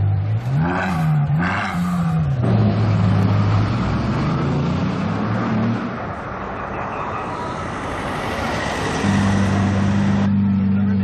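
Supercar engine idling, blipped twice in quick succession near the start, then settling back to a steady idle amid street traffic noise.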